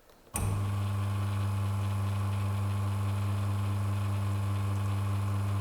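Sanremo espresso machine's external pump switching on and running with a steady, even hum while it drives water through the group head to verify the set brew pressure.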